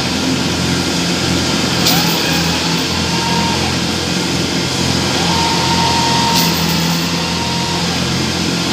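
Combine harvester diesel engines running under heavy load while towing a Kubota DC-70 Plus stuck in mud, the pull not getting it out. A high whine rises, holds and falls away a few times over the steady engine sound.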